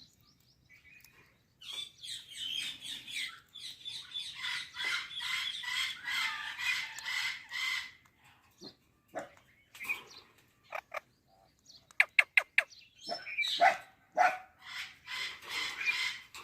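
Pet Indian parakeet chattering and chirping in long rapid runs, broken by a few sharp clicks, with a quick set of four loud clicks a little after midway.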